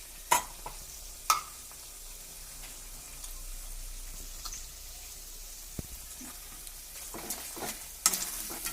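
Chicken sizzling as it fries in hot oil in a pan, stirred with a spoon that knocks against the pan: two sharp knocks in the first second or so and more stirring near the end.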